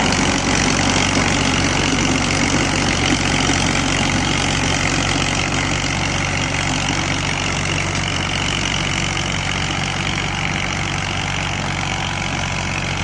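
Massey Ferguson tractor's diesel engine running steadily at an even speed.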